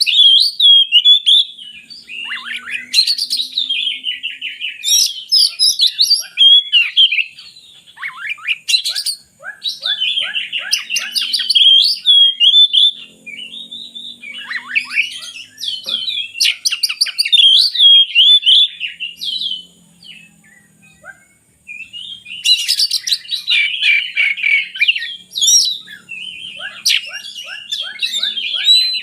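Oriental magpie-robin (kacer) singing loud, varied whistled phrases with rapid trills. The song breaks off for a pause of about a second and a half some two-thirds of the way through.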